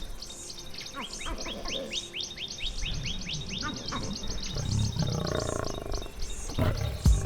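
Birds chirping in a fast run of short, descending notes, with a low animal growl about halfway through.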